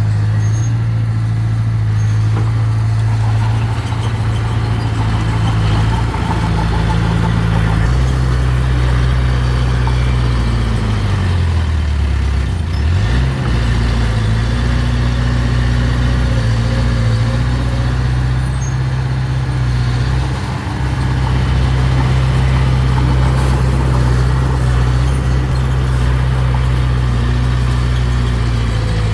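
Mini bulldozer's diesel engine running steadily under load; its note shifts about a quarter of the way in, then sags and recovers briefly around halfway before settling.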